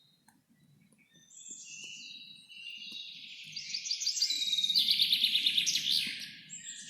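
A songbird sings a long, rapid trilling song that starts about a second in, grows loudest past the middle and fades near the end, with other birds chirping faintly around it.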